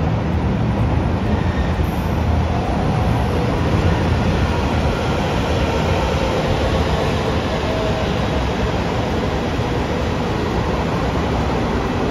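A train running by, a steady, unbroken noise of wheels and running gear.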